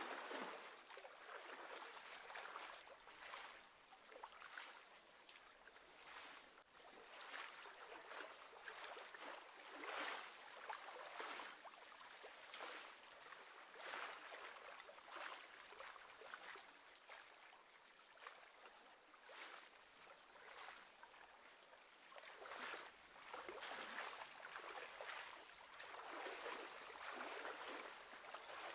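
Small wind-driven waves lapping and splashing against the shore: a faint, irregular wash that swells and eases every second or two.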